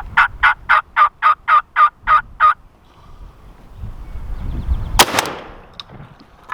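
A turkey yelping: a rhythmic series of about ten evenly spaced yelps, roughly four a second. About two and a half seconds after they stop comes a single loud shotgun blast, the loudest sound here.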